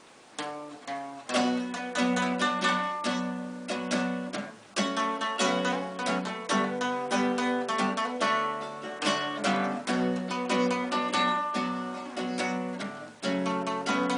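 Acoustic guitar playing the instrumental intro of a sertanejo song, picked and strummed chords in a steady rhythm, starting about half a second in.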